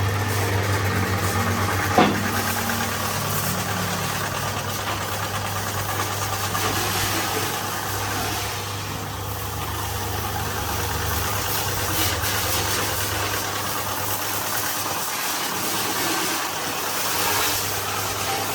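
Diesel engine of a heavy farm or construction machine running steadily with a low hum. There is a single sharp knock about two seconds in.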